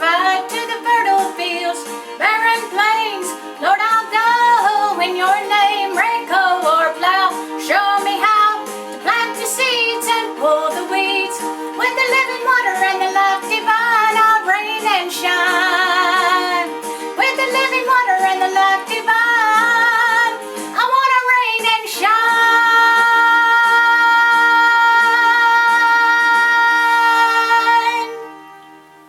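A woman singing a gospel song over an instrumental backing track, her voice wavering with vibrato, ending on a long held note that fades out near the end.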